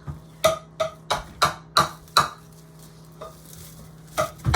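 Metal utensil clinking and scraping against cookware, a quick run of about six ringing strikes, a pause, then two more near the end, over a steady low hum.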